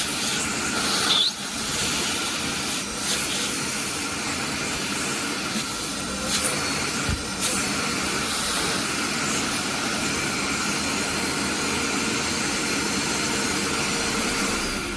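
Wet/dry vacuum cleaner running steadily with a loud rushing hiss of air, a few sharp clicks and knocks in the first half.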